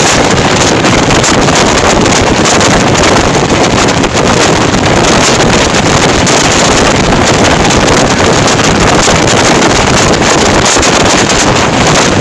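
Passenger train coaches running at speed directly over a camera between the rails: a loud, steady noise of wheels, undercarriage and rushing air, right under the train.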